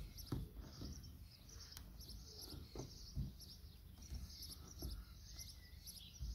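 Faint small-bird chirping, repeated short notes, over a low outdoor rumble with a few soft low knocks.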